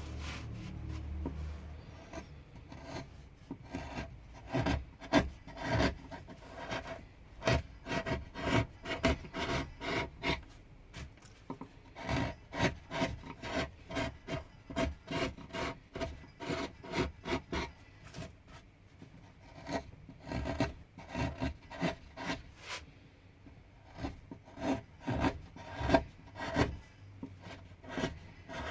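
Hand carving tool cutting and scraping into pine wood in many short strokes, coming in quick runs with brief pauses. A low hum fades out in the first two seconds.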